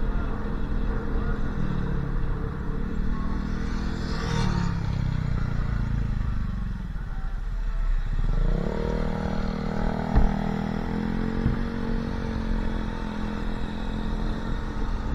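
Motorcycle engine running under way, with road and wind noise; it eases off about seven seconds in, then picks up again as the bike accelerates. A brief whoosh about four seconds in, and a single sharp knock about ten seconds in.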